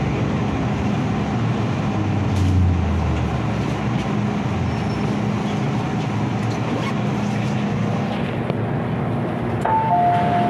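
Steady rumble and hiss inside an MTR Kwun Tong line M-Train carriage. Near the end, a two-tone electronic chime begins, a higher and a lower note alternating.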